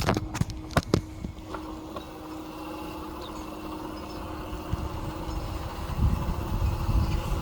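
Electric bike in motion: a steady hum from the bike with a few sharp knocks or rattles in the first second, and wind rumbling on the microphone that grows louder near the end.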